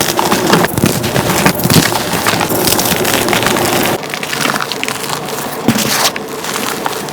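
Dyed gym chalk blocks being crushed and crumbled, a dense run of crunching and crackling. About four seconds in the sound changes to a somewhat quieter, thinner crunch.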